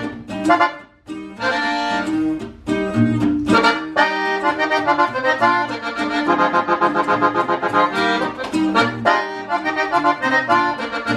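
Instrumental intro of a norteño-style corrido: accordion playing the melody over a rhythmic guitar and bass accompaniment, with a brief break about a second in.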